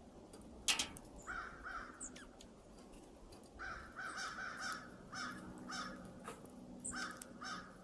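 A bird at the feeders calling in several runs of short, harsh calls. There is a sharp click a little under a second in.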